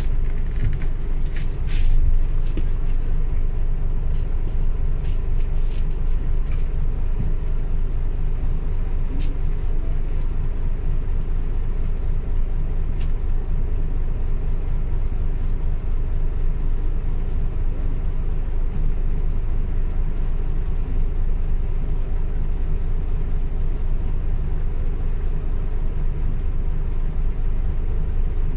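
Scania OmniLink CL94UB city bus under way: a steady low engine and drivetrain rumble, with scattered clicks and rattles during the first several seconds and once more about halfway through.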